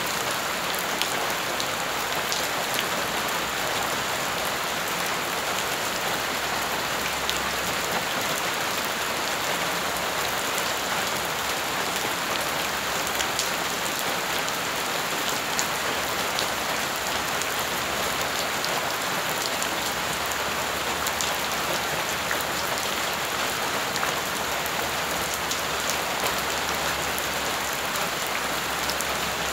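Steady rain splashing onto wet gravelly ground and puddles: an even, unbroken hiss dotted with many small drop ticks.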